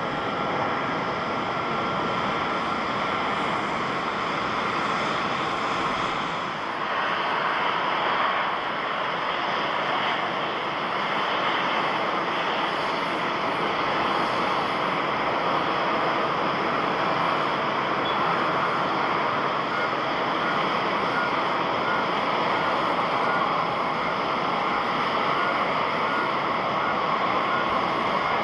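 Jet airliner engines running, a steady loud rush of engine noise with a faint whine in it; a brief dip about six and a half seconds in, after which the same steady engine noise carries on.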